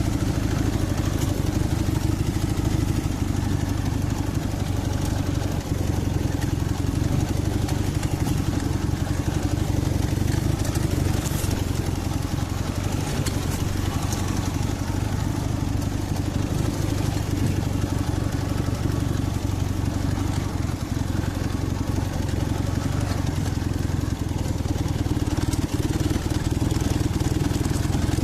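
Dnepr MT-11 motorcycle's two-cylinder boxer engine running steadily, its carburettors and ignition timing freshly set.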